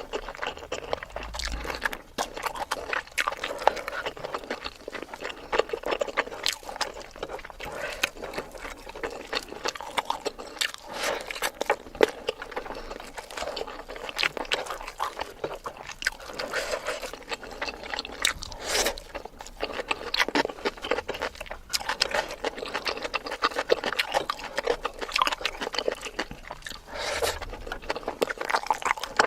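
Close-miked eating sounds from a mukbang: wet chewing and mouth smacks as a person works through mouthfuls of food, a dense, irregular run of small clicks and squelches throughout.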